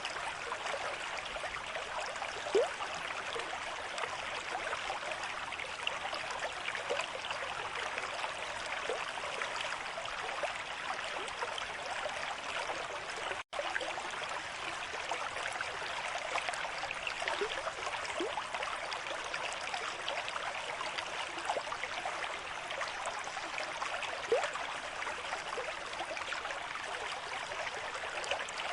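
River stream flowing at a moderate rate: a steady rush of water with small bubbling gurgles throughout and two slightly louder plops, one about two and a half seconds in and one near the end. The sound cuts out for an instant about halfway.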